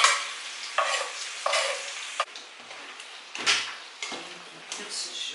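Zucchini, carrot and mushrooms sizzling in a wok as chopped garlic goes in and the mix is stirred. Several separate scraping, sizzling strokes, the loudest at the very start.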